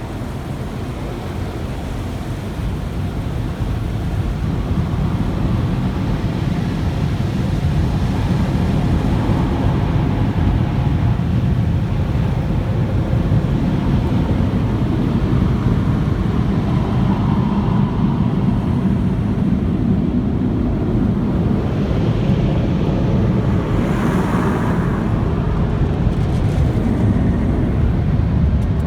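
Steady loud rumbling of automatic car wash machinery heard from inside the car, growing a little louder a few seconds in.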